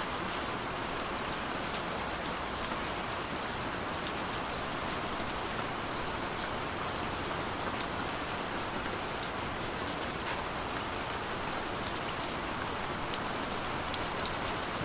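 Heavy rain falling steadily, a constant hiss with many sharp ticks of individual drops striking a surface.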